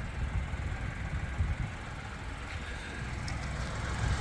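A 2024 Chevrolet Trax's 1.2-litre turbocharged three-cylinder engine idling, heard from outside the car as an uneven low rumble.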